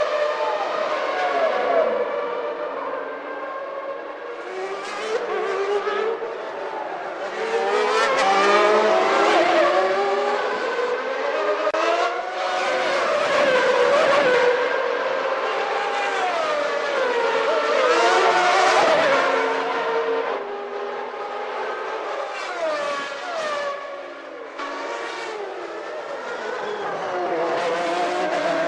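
Formula One cars' naturally aspirated 3.5-litre racing engines, several at once, revving up and down through gear changes as they pass. Their high, overlapping notes swell and fade repeatedly.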